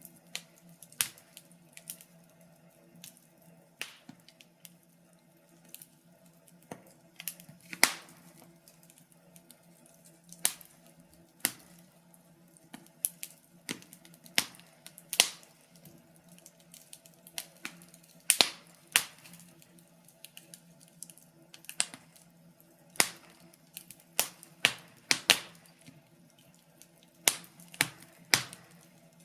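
Wood fire crackling: irregular sharp pops and snaps, a few louder than the rest, over a faint steady low hum.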